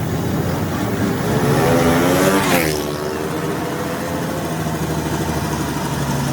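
Vehicle engine running, revving up with rising pitch to a peak about two and a half seconds in, then dropping back to a steady run.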